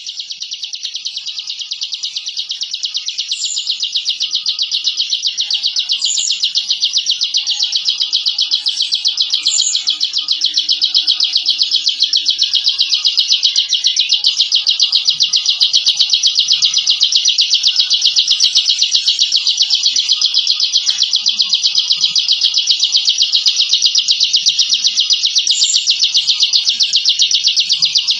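Ciblek (prinia) singing its ngebren song: one long, unbroken, rapid buzzing trill that grows louder over the first half and then holds steady. A few short, higher chirps sound over it early on and again near the end.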